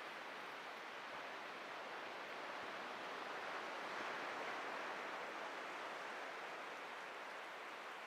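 Atlantic Ocean waves: a steady hiss of surf that swells a little around the middle.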